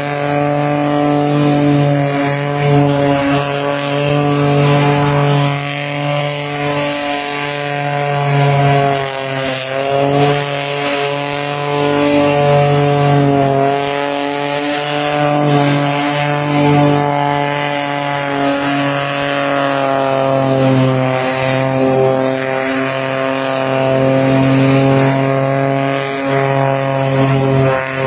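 The supercharged 3.8-litre V6 (GM L67) in a 1960 Morris J2 van is held at high revs through continuous donuts, with its rear tyres spinning. The pitch wavers and dips briefly twice.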